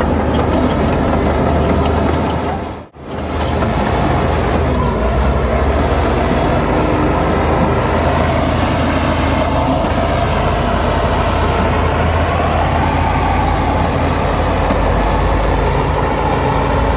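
Diesel engines of heavy earthmoving machinery running steadily under load. The sound drops out for a moment about three seconds in.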